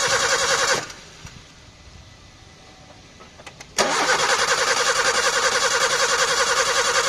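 Car engine running steadily with a fast even pulse, cut off abruptly about a second in. After a few faint clicks it starts again abruptly near four seconds in and runs on.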